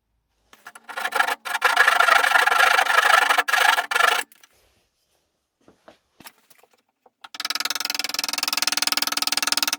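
A tool rubbing and rasping on wood in two spells of about three seconds each, starting and stopping abruptly, with a short quiet gap between them.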